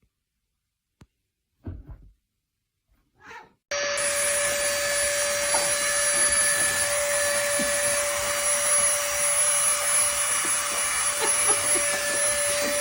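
A motor-driven machine starts running abruptly about four seconds in, giving a loud, steady whir of rushing air over a constant hum. The seconds before it are nearly silent apart from a couple of brief soft sounds.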